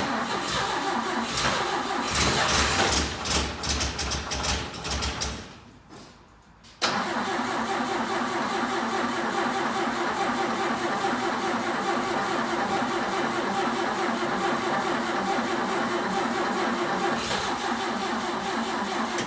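A 1962 Jeep M170's four-cylinder engine being cranked over by the starter without firing: a short burst of cranking, a brief pause, then a long steady stretch of cranking that stops abruptly.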